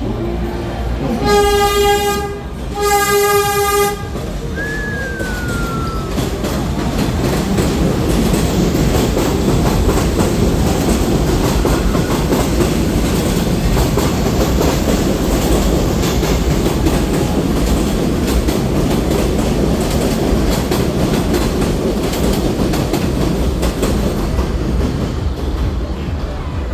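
Two long horn blasts, then a train running past with a steady rumble and the clatter of its wheels on the rails.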